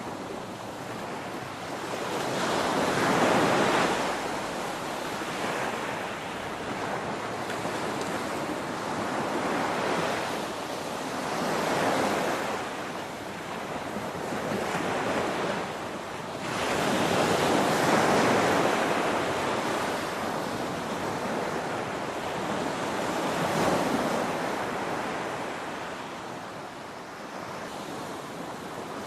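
Ocean surf: waves breaking and washing in, one after another, a steady rush that swells to a peak every few seconds and ebbs between them.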